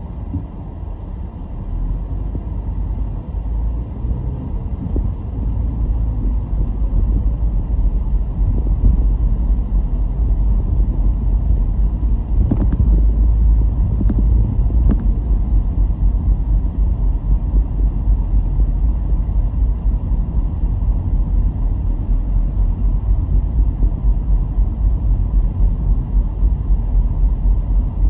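A car driving along a road, heard as a steady low rumble of tyres and engine that grows louder over the first several seconds. Two faint ticks come about halfway through.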